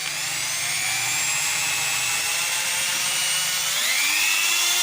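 RYU mini grinder (handheld rotary tool) motor running free at a high speed setting, a high-pitched whine that dips briefly at the start and then rises in pitch about four seconds in.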